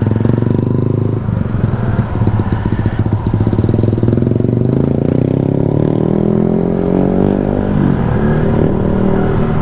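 Motorcycle engine running under way, heard from the rider's seat. Its pitch climbs steadily as it accelerates for several seconds, then drops about two seconds before the end and holds steady.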